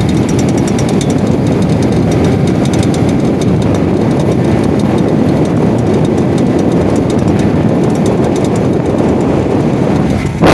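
A boat's new engine running steadily under way, a loud, even drone with no change in pitch.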